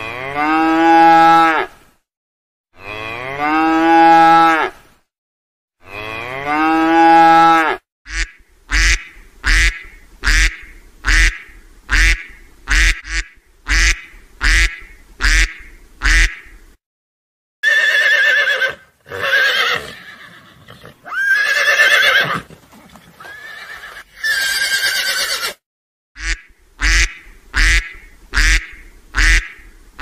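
Cattle mooing: three long calls of about two seconds each. Then ducks quacking in a steady run of short quacks, a little faster than one a second, broken in the middle by several seconds of louder, rougher calls before the short quacks resume.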